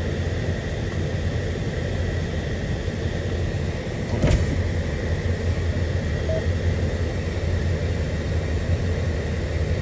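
Diesel locomotive idling with a steady low rumble, one sharp knock about four seconds in.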